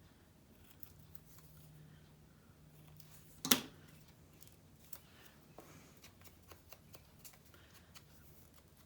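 Scissors snipping the corners off a small paper label: a few sharp snips, one louder cut about three and a half seconds in, then small ticks of paper being handled.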